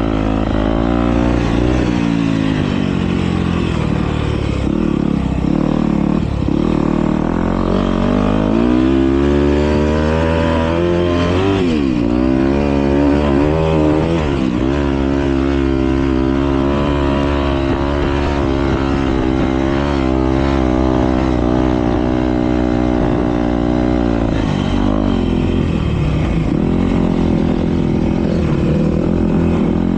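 Several motocross bikes racing, their engines revving up and down in overlapping waves as they accelerate and shift, with a steady low rumble beneath.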